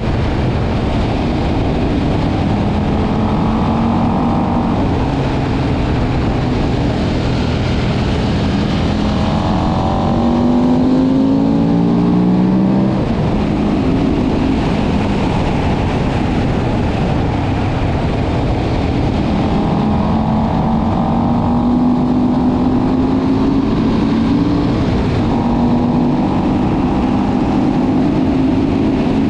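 KTM 1190 Adventure's V-twin engine pulling hard under acceleration, its pitch climbing and then dropping suddenly at each upshift, over a steady rush of wind noise.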